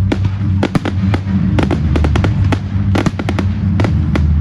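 Display fireworks going off in quick succession, many sharp bangs several times a second, over loud music with a heavy bass.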